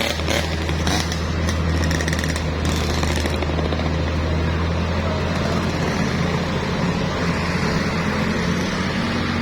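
Heavy vehicle's diesel engine running with a steady low drone, with some rattling clicks in the first few seconds.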